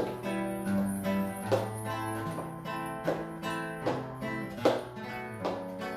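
Acoustic guitar strummed in a steady rhythm, chords struck about every three-quarters of a second, as the instrumental introduction to a song.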